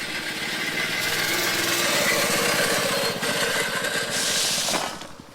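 A small motor running steadily with a fast pulsing beat, a brief hiss about four seconds in, and the sound dying away near the end.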